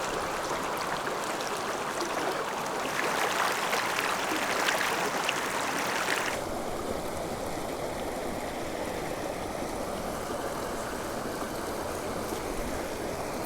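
Mountain creek water rushing steadily over rocks. About six seconds in, the sound switches abruptly to a softer, duller wash.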